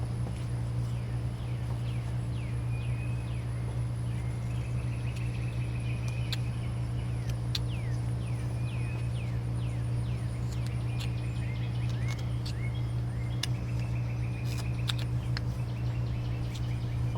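Steady low hum throughout, with scattered sharp clicks of a carving knife cutting wood and runs of short, high, falling chirps.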